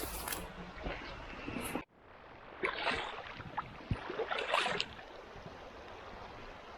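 Footsteps crunching and rustling through brush and leaf litter over a steady hiss. The sound drops out abruptly about two seconds in, then resumes.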